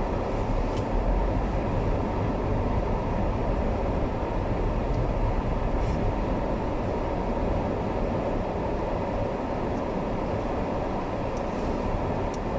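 Steady rumble of a car's tyres and engine heard from inside the cabin while driving on a slippery, snow-covered road.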